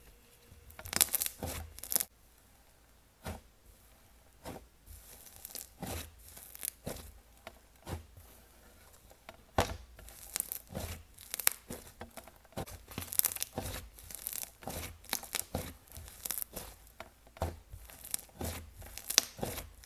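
Wood-glue-base butter slime being squished, stretched and poked by hand, giving irregular sharp pops and crackles, some in quick clusters.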